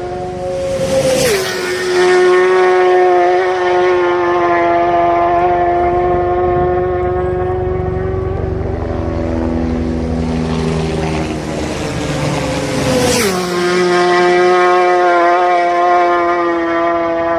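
Motorcycles running at high revs with a steady high-pitched engine whine, passing twice about twelve seconds apart; at each pass the pitch drops sharply with a brief rush of noise.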